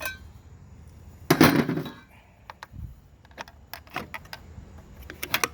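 Metal tools and small-engine parts clinking and clanking during disassembly: one louder clatter about a second and a half in, then a run of sharp, light clinks.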